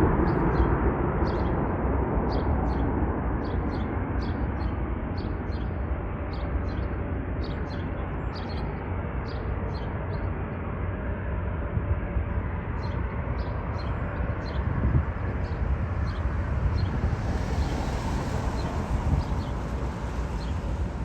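Low rumble of a departing jet airliner fading away, with a small bird chirping repeatedly, about twice a second, over it.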